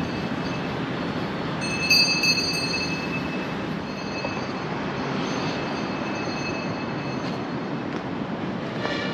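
A train passing with a steady running rumble, most likely the elevated BTS Skytrain that runs beside the tower. High wheel squeal rises about two seconds in, then fades to a faint thin whine.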